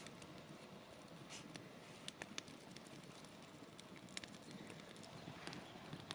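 Faint outdoor quiet with a few scattered sharp ticks and crackles over a low hiss.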